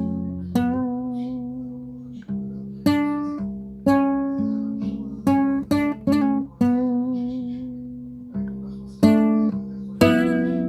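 Guitar playing a slow melody: single plucked notes and chords, each ringing out and fading before the next, some held notes wavering with vibrato.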